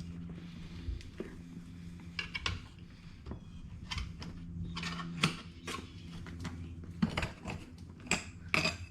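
Hands working a scooter tire and inner tube off the wheel rim: scattered clicks, clinks and rustling, with sharper metallic clinks about five and seven seconds in and twice near the end, over a steady low hum.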